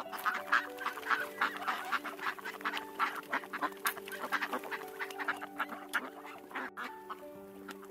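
A flock of birds calling in quick, overlapping bursts, over background music of steady held notes.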